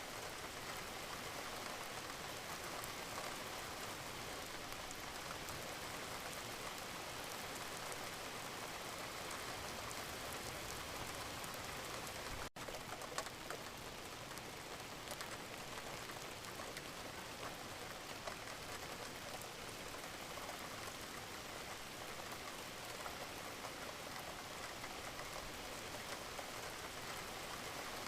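Wood fire in a fireplace crackling steadily with many small pops. One louder pop comes about thirteen seconds in.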